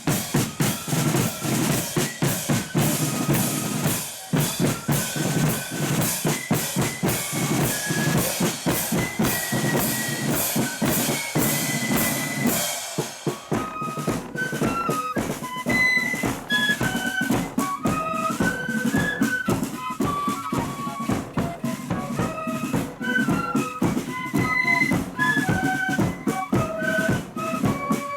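Marching flute band playing: snare and bass drums beat a steady march throughout. The flutes' melody comes in clearly about halfway through.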